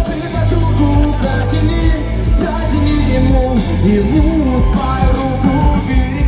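Loud live pop music played over a stage sound system: a heavy steady bass line under a sung melody.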